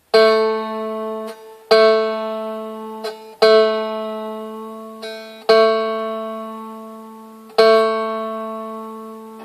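Seagull Merlin's A string plucked five times, each note ringing out and fading before the next, as the instrument is tuned to A.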